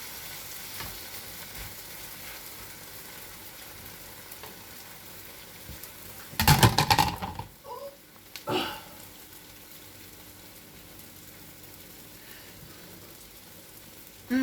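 Egg omelette sizzling gently in a frying pan over a very low flame. A brief loud clatter comes about six and a half seconds in, and a shorter knock about two seconds later.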